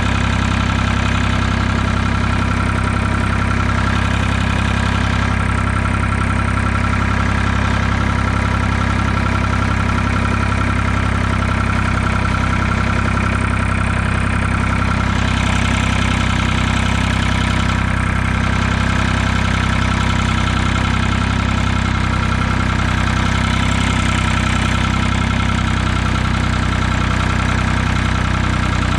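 Ford 2000 tractor's three-cylinder diesel engine running at a steady idle, with no revving.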